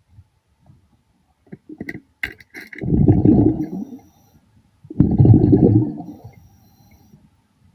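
A diver breathing underwater: two long bursts of exhaled bubbles rumbling out of the breathing regulator, about two seconds apart, with a few quick clicks just before the first.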